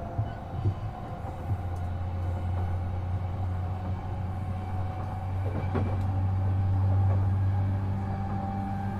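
JR East E233-7000 series electric train running at speed, heard from inside the car: a steady rumble of wheels on rail under a steady motor hum, with a few short knocks in the first couple of seconds.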